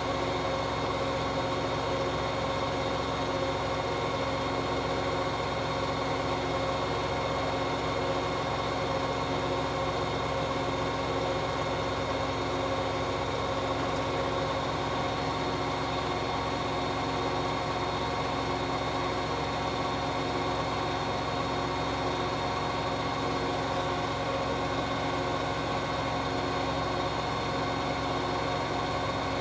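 Hoover H-Wash 600 integrated washing machine on a 1400 rpm spin-and-drain programme, its drum spinning at a steady high speed: an even, unchanging hum of motor and drum.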